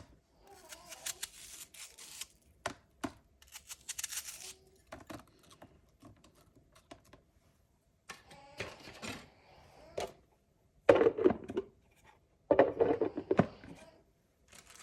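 Handling noises: rustling and quick light clicks, with two louder spells of clattering about eleven and thirteen seconds in.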